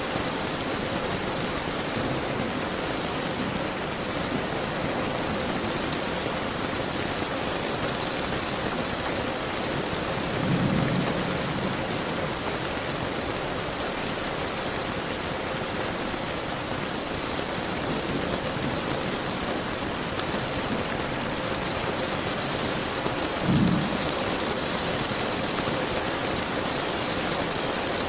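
Steady heavy rainfall hissing on surfaces. Two short, low thunder rumbles come through, one about ten seconds in and another near the end.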